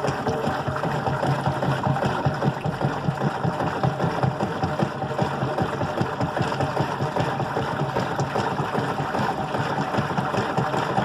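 GE Profile washing machine running, a steady, fast, rhythmic mechanical churning.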